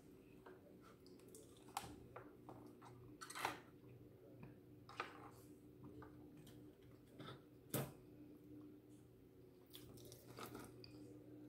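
Quiet close-up chewing of fries and chicken wings: soft wet mouth sounds with scattered short clicks and a handful of louder sharp crunches. A faint steady hum lies underneath.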